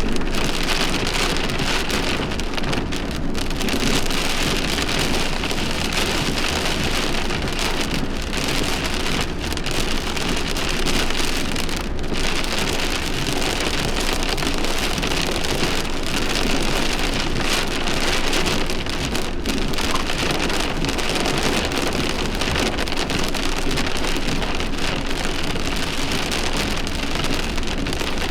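Heavy rain falling in a thunderstorm, a steady even downpour.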